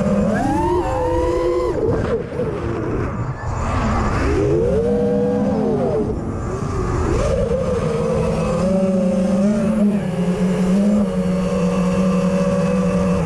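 Racing quadcopter's brushless motors and propellers whining, the pitch rising and falling with the throttle, then holding fairly steady from about eight seconds in. The quad was running with a fault the owner had not yet found.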